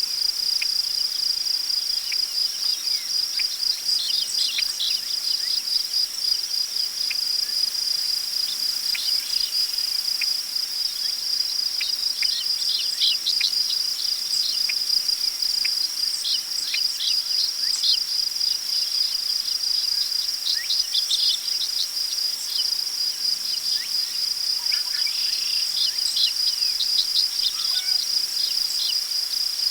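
Crickets chirping in a steady, high, unbroken trill, with many short bird chirps and calls scattered over it.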